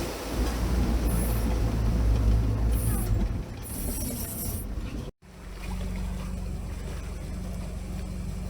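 All-terrain vehicle engine running with an uneven low rumble and bursts of hiss. About five seconds in it cuts off abruptly and gives way to a steadier engine hum.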